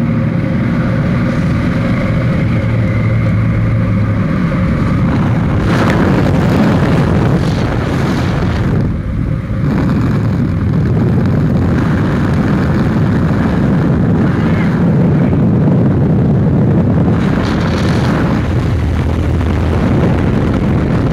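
Steady engine drone for the first few seconds, then a loud, continuous rush of air over the microphone, as in a skydive's freefall.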